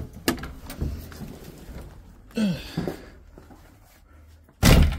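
Clicks and handling noises inside a Citroën 2CV, then a single loud thump near the end as a car door is shut.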